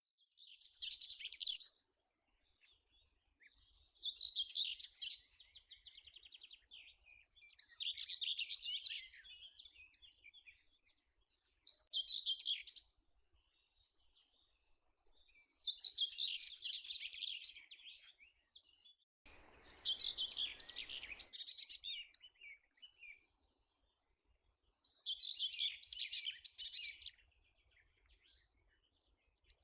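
A songbird singing a short, high song phrase over and over, about once every four seconds. About two-thirds of the way through, a brief rush of noise lasts around two seconds.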